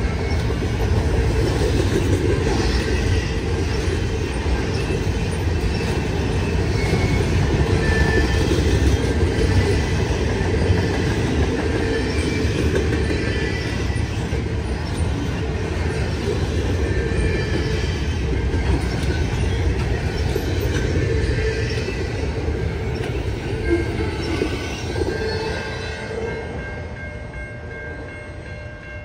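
Freight train rolling past: a steady heavy rumble with the clatter of wheels over the rail. Near the end the rumble fades and a steady chord of several tones, like a distant train horn, sounds.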